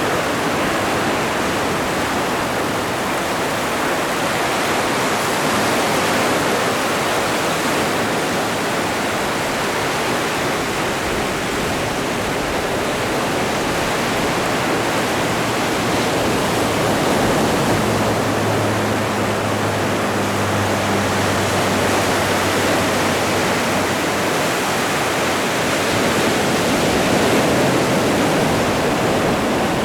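Atlantic Ocean surf: a steady rushing wash of breaking waves that swells gently every several seconds. A faint low hum runs under it for several seconds in the middle.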